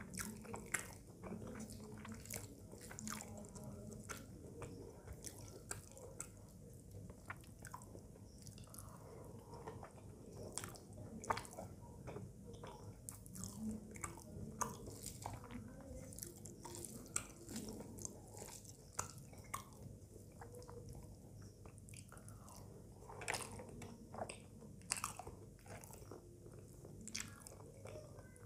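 A person eating rice and curry by hand and chewing, with many short clicks and smacks throughout.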